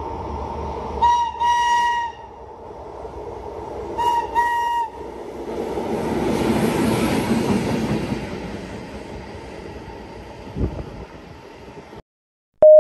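A train passing through a station at speed sounds its horn twice, about three seconds apart, each time a short blip followed by a longer blast. The rush of the passing train then swells and fades over several seconds.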